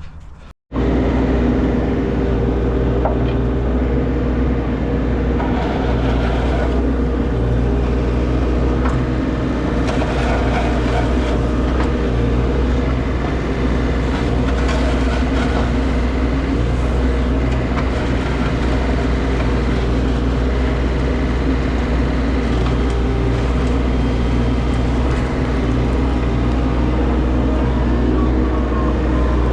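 Engine of an excavating machine running steadily while it digs out a walkway bed, a deep, even drone with a few light knocks.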